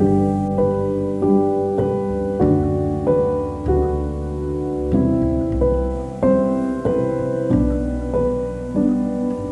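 Background music: solo piano playing a slow melody with chords, notes struck roughly once or twice a second and left to ring.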